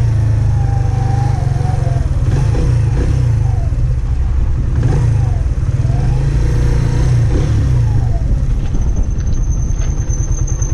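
Benelli VLX 150cc motorcycle engine under way, its pitch rising and falling again and again as the throttle opens and closes, evening out to a steady pulsing run near the end.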